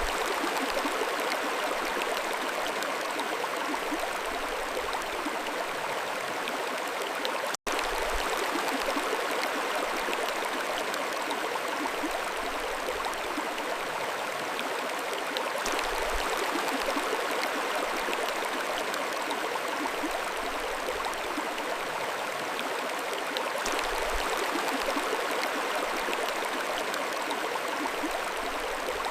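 Mountain stream flowing, a steady rush of water, with a split-second dropout about seven and a half seconds in.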